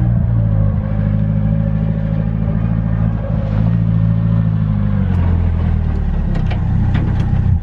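Nissan S13's SR20DET four-cylinder engine running at a steady speed. Its note drops slightly about five seconds in, and a few clicks come near the end.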